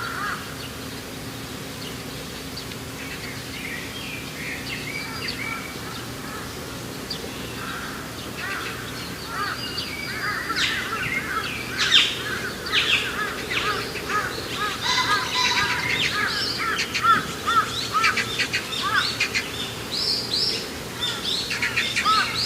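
Birds chirping with many short, rapid calls, sparse at first and growing busier and louder from about a third of the way in.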